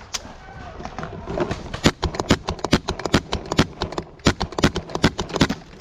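Paintball markers firing a rapid string of sharp shots, several a second and uneven in loudness, starting about two seconds in.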